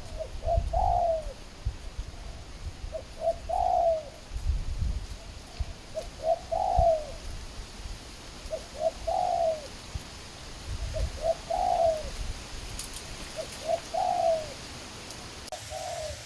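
Spotted dove cooing in a repeated phrase, a couple of short notes then a longer falling coo, about six times at roughly two-and-a-half-second intervals. A low rumble comes and goes underneath.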